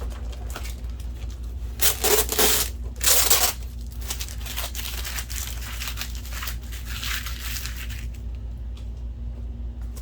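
Packing material being pulled off and torn by hand: two loud rips about two and three seconds in, then a longer, softer crinkling rustle.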